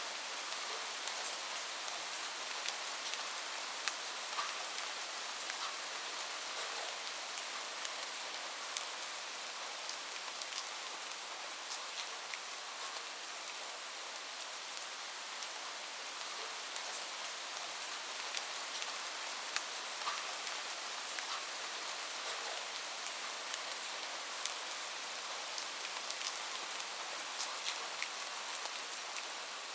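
Steady rain falling on a roof, a continuous hiss with many scattered individual drops ticking sharply.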